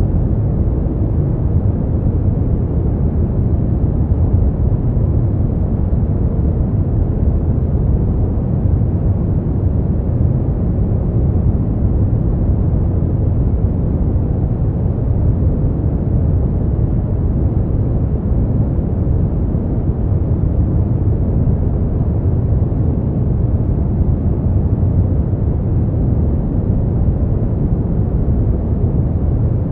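Brown noise: a steady, deep rushing noise, heavy in the low end with little high hiss, unchanging in level throughout.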